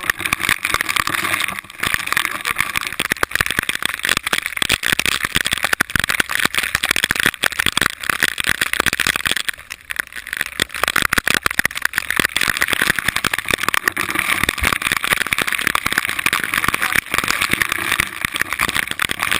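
Enduro motorcycle engine running hard on an off-road course, with a brief drop in level about halfway through.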